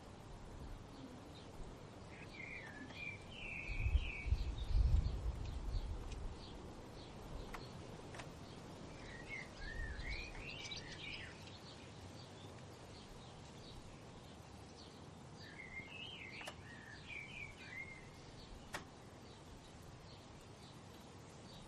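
Songbirds singing short warbling phrases, three bouts of song a few seconds apart, over a steady outdoor hiss. A low rumble swells about four seconds in and fades a couple of seconds later, the loudest thing in the stretch.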